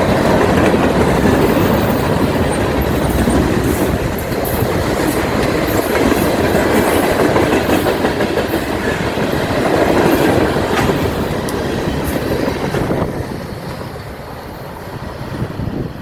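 Norfolk Southern freight train rolling past, its railcar wheels clacking over the rail joints in a loud, steady rumble that falls away about thirteen seconds in.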